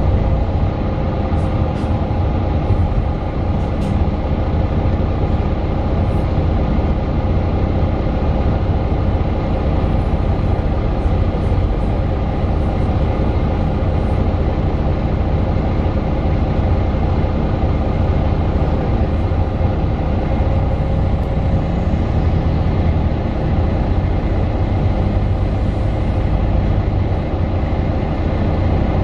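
Interior sound of a Mercedes-Benz Citaro 2 city bus with its OM 936 six-cylinder diesel and ZF Ecolife automatic gearbox running steadily, with a low rumble underneath.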